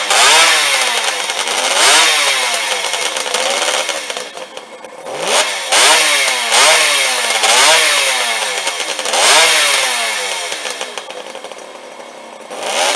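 Kawasaki 250SS two-stroke triple engine being revved in a series of throttle blips, the revs rising and falling every second or two. The revs then drop back toward idle, with one last blip near the end.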